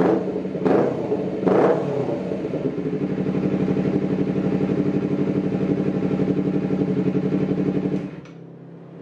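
Honda CBR250RR motorcycle with an aftermarket stainless-steel exhaust, revved in a few quick throttle blips, then running steadily with a deep, bassy exhaust note. The level drops sharply a little after eight seconds in.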